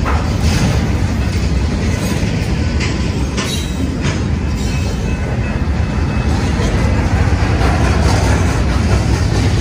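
Train rolling by on the BNSF line: a steady, loud rumble of wheels on rail with a few sharp clicks.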